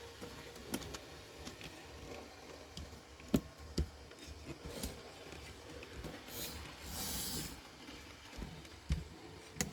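Light clicks and taps from handling a small model locomotive and its parts on a workbench, with a short rustle about six to seven seconds in. No motor is running.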